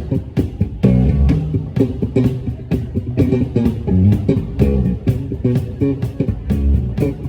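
Live funk band playing an instrumental stretch: bass guitar and electric guitar over a steady drum beat.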